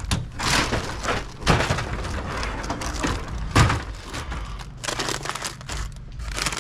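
Plastic snack wrappers crinkling and boxes being handled while a vending machine is restocked, with irregular rustling and a sharp knock about three and a half seconds in.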